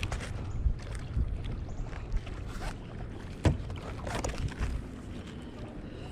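Kayak on the water: paddle splashes and a few sharp knocks against the boat over a low steady rumble, the loudest knock about three and a half seconds in.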